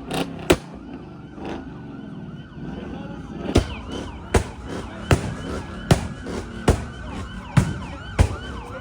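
Police sirens wailing, several overlapping and rising and falling in pitch, from about a second and a half in. Sharp knocks close to the microphone, louder than the sirens, come twice at the start and then roughly once a second from about halfway through.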